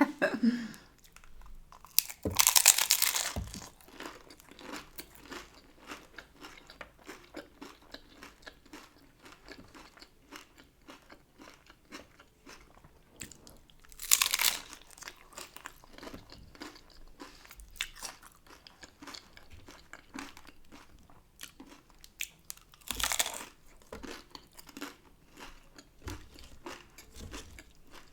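Hard-shell taco being eaten: three loud crunching bites through the shell, about 2 s, 14 s and 23 s in, with steady crunchy chewing between them.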